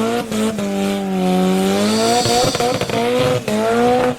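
A sports car's engine held at high, steady revs, its note wavering slightly up and down, with crackles running through it.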